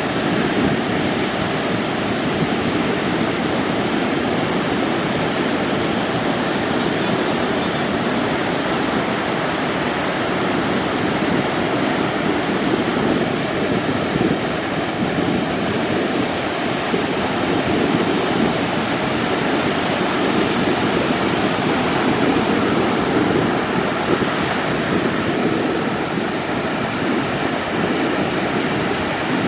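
Steady rush of ocean surf breaking and washing ashore, with wind on the microphone.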